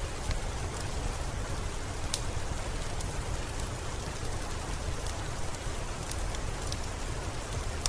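Steady rainfall, an even hiss over a low rumble, with scattered sharp ticks; the clearest tick comes about two seconds in.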